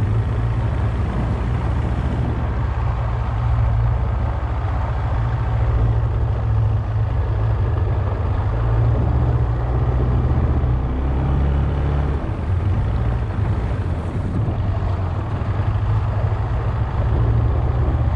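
The motor of a small work barge running steadily under way, a continuous low engine drone.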